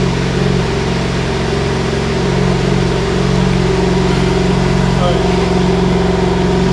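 BMW G80 M3's twin-turbo inline-six idling steadily.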